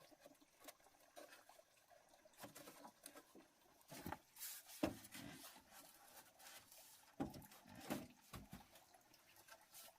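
Faint, scattered rustling with a few short sharp clicks and knocks, clustered about midway and again near the end.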